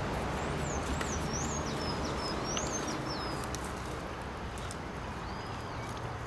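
A songbird giving a quick series of high chirps, each sliding up and down, in the first half, over steady outdoor background noise with a few faint clicks.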